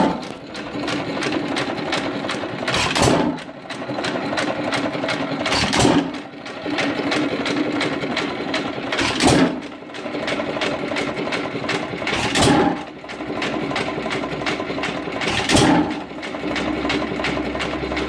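A 1 1/2 hp Hercules single-cylinder hit-and-miss engine running: it fires one loud stroke about every three seconds and coasts between firings with a steady, rapid mechanical clatter.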